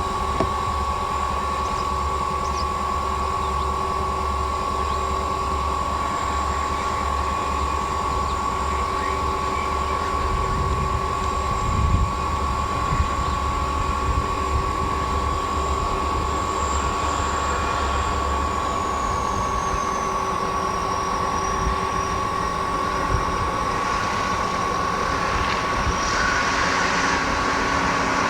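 Freight train rolling by with a steady rumble of wheels on the rails. The low rumble eases off about two-thirds of the way through, and the rolling noise grows again near the end. A constant high thin tone sounds throughout.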